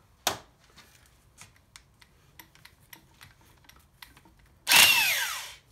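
Power drill running in short bursts on the engine's timing-cover bolts, with light metal clicks between. The first burst is brief, about a third of a second in. Near the end comes a louder burst of about a second whose whine falls in pitch as the motor spins down.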